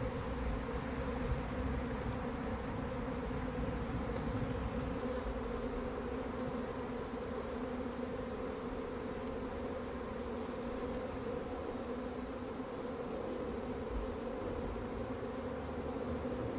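Honeybees buzzing in a steady, even hum around an opened hive during an inspection.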